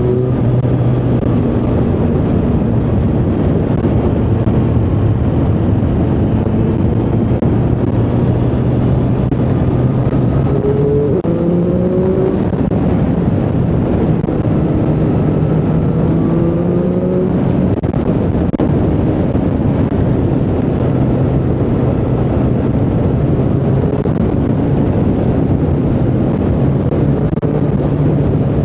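Triumph Street Triple 765R's 765 cc inline-three engine running as the motorcycle is ridden, with a steady rush of noise underneath. About a third of the way in the engine note steps up, climbs for several seconds, then drops back to a lower steady note.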